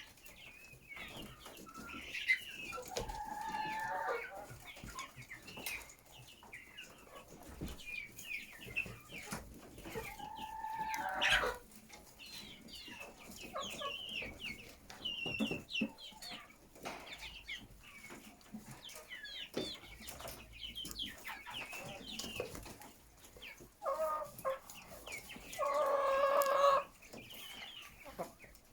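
A flock of chickens clucking and calling continuously, with a rooster crowing a few times; the longest crow comes near the end.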